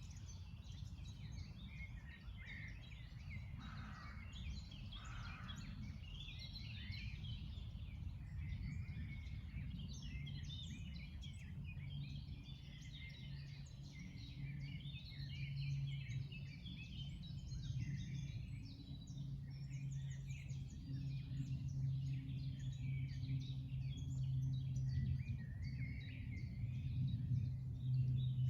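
Chorus of many songbirds chirping and trilling without pause, over a low rumble with a steady hum that grows louder in the second half.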